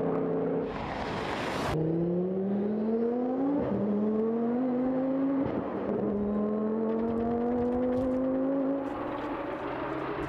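A high-performance car engine accelerating hard through the gears, its pitch climbing steadily in each gear and dropping sharply at two upshifts a couple of seconds apart. Shortly before the climb starts, a brief loud hiss; the engine's level falls near the end.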